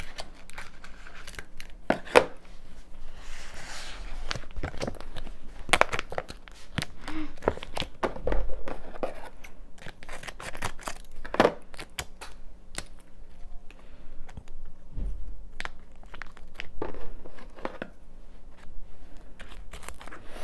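Food packaging being handled and torn open, with crinkling and tearing and scattered small clicks and knocks.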